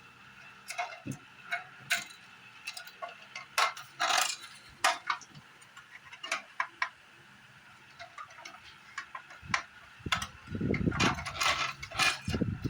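Irregular sharp clicks and light taps, unevenly spaced, with duller rubbing or handling noises about ten seconds in.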